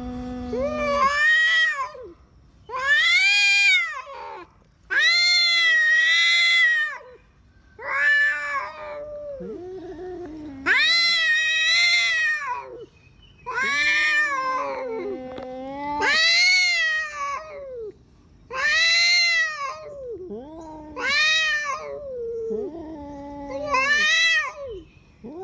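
Male domestic cats caterwauling at each other: a series of long yowls that rise and fall, one every second or two, with lower drawn-out growls in between. This is the standoff of rival tomcats over a female.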